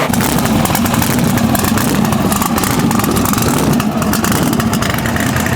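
A vehicle engine running loudly and steadily, with rapid, rough firing pulses.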